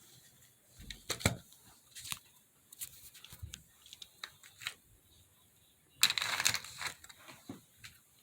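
Scattered light clicks and taps of HO scale model train cars being handled, with a short rustle about six seconds in.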